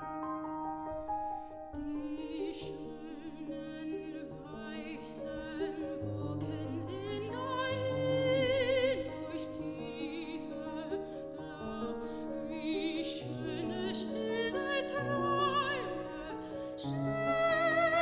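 Classical soprano singing with a wide vibrato over piano accompaniment. The piano plays alone for about the first two seconds before the voice comes in.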